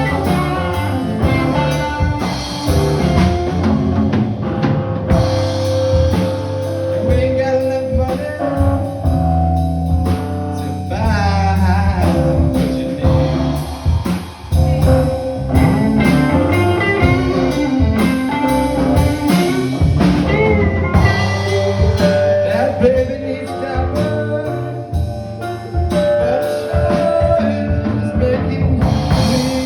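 Live band playing a blues-style song on drum kit and guitar, with a voice that may be singing over it.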